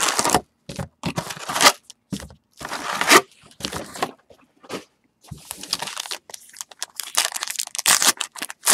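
Trading-card pack wrappers being torn open and crinkled by hand, in irregular bursts of tearing and rustling with short pauses between them.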